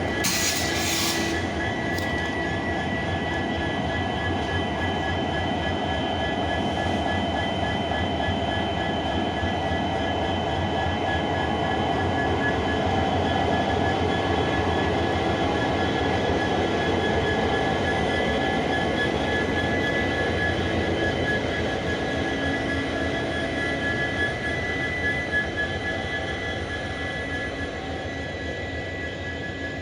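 WDP4 diesel locomotive's EMD 16-cylinder two-stroke engine running steadily: a continuous rumble with a steady high whine over it. A brief hiss sounds at the start, and the sound eases off near the end.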